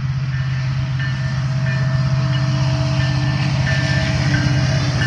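Union Pacific train's diesel locomotive approaching and passing a grade crossing, its low engine rumble growing steadily louder, heard from inside a car.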